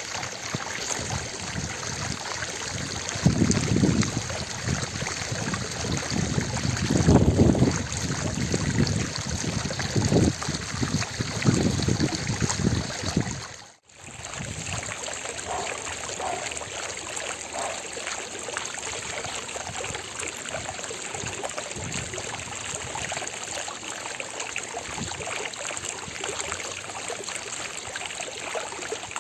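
Fountain water splashing and trickling in a steady rush, with louder low rumbling surges in the first half. The sound cuts out for an instant about 14 seconds in and then resumes steadily.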